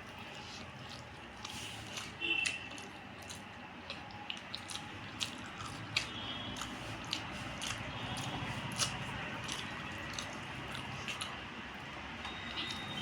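Wet chewing and mouth smacks of a person eating rice and curry, with many small scattered clicks.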